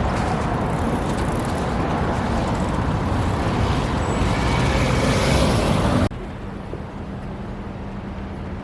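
Tram running, a loud steady rumble and hiss of wheels and motor; about six seconds in it cuts off suddenly to a much quieter steady hum.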